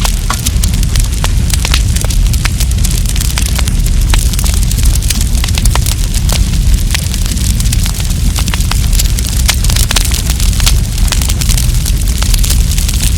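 Wood campfire crackling, with many quick, irregular sharp pops and snaps over a steady low rumble.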